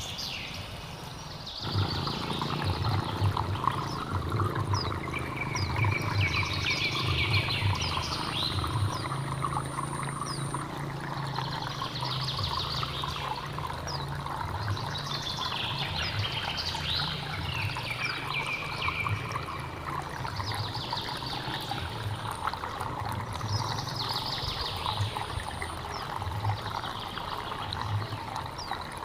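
A stream running and gurgling over rocks, coming up fuller a little under two seconds in. A bird sings short phrases above it every few seconds.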